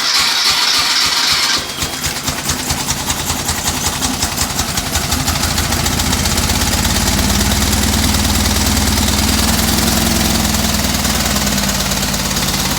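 1967 Volkswagen 1600 dual-port air-cooled flat-four, converted to an air compressor, running just after start-up. A high hiss cuts out about a second and a half in, leaving steady running with a fast even beat that grows deeper about halfway through.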